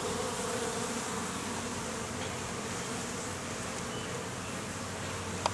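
Honeybees buzzing in a steady hum around an open hive, with drones flying in and out.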